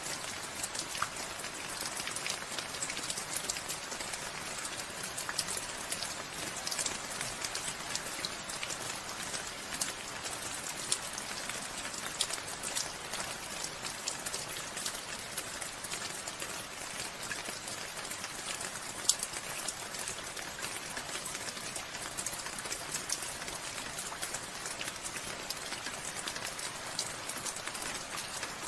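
Steady rainfall, with many individual drops ticking on a surface throughout and one sharper drop hit about 19 seconds in.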